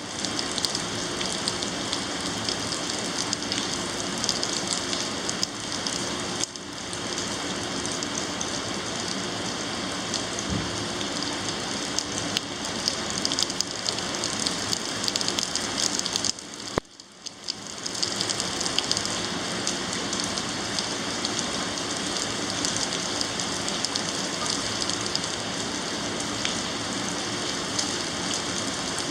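Heavy thunderstorm rain pouring down steadily, a dense hiss of countless drops pattering on surfaces. The sound drops away briefly a little past the middle, then returns as before.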